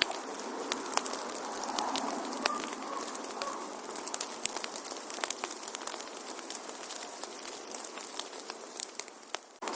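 Wood fire in a fireplace crackling, with many sharp irregular pops over a steady rush of the flames. The sound drops away for a moment just before the end, then comes back.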